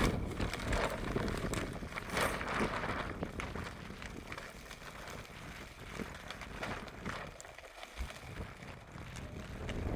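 Strong mountain wind gusting over the microphone, with scattered clicks and rustles; it eases in the middle and picks up again near the end.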